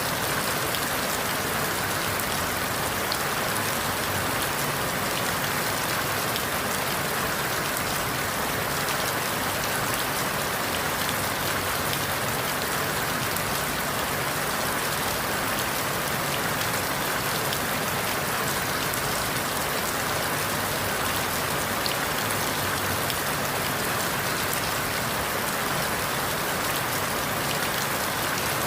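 Steady rain falling through forest leaves, an even hiss full of fine patter, with no thunder or other sudden sounds.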